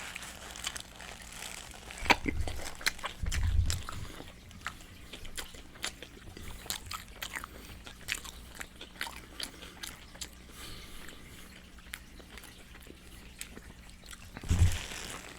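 Close-miked eating of Popeyes fried chicken: crunchy bites and chewing with many sharp, wet mouth clicks and loud smacking. There are a few deep thumps about two and three and a half seconds in and again near the end.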